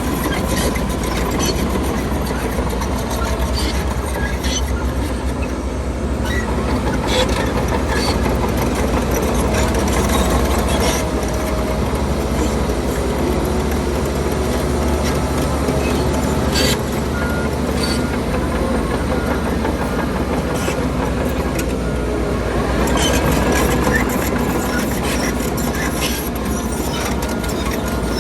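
Diesel engines of heavy earthmoving machinery running steadily under shifting load, with scattered metallic clanks. A little past halfway a vehicle's reversing alarm starts beeping in an even rhythm, and it beeps again near the end.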